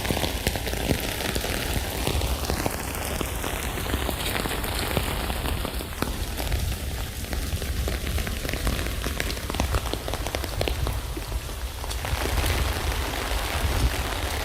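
Steady rain falling on a tent, a dense wash of individual drop strikes over a low rumble.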